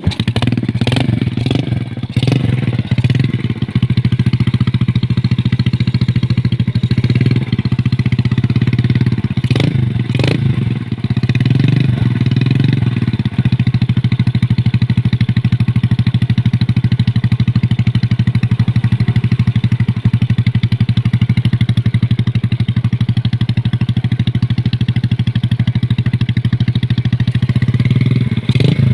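Yamaha Jupiter Z 125cc motorcycle's single-cylinder four-stroke engine running through a CLD C3 aftermarket exhaust. It comes in at the start, is revved briefly a few times in the first dozen seconds, then idles steadily.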